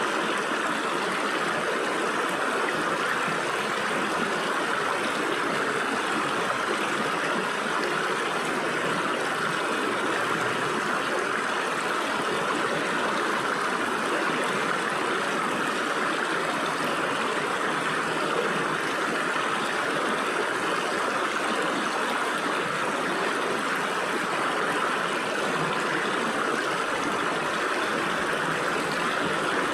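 Stream water flowing and splashing through gaps between rocks, a steady rushing babble.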